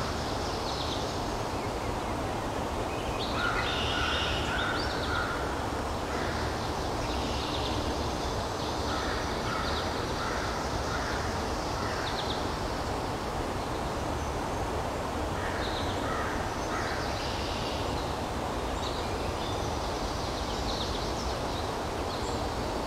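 Woodland ambience: a steady outdoor hiss and rumble, with a bird calling in short runs of repeated notes several times.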